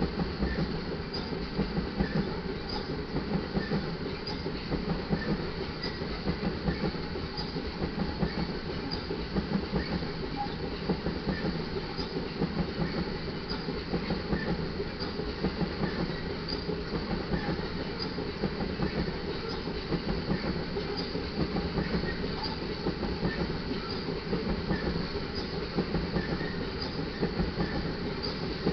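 Loaded iron ore hopper cars of a freight train rolling past, with steel wheels rumbling steadily on the rail and a regular clickety-clack of wheels over rail joints.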